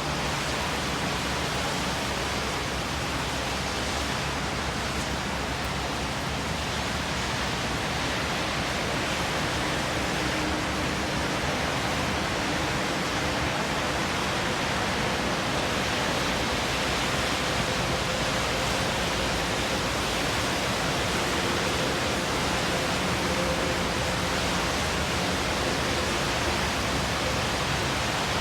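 Heavy rain pouring, a steady dense hiss of falling water with no breaks.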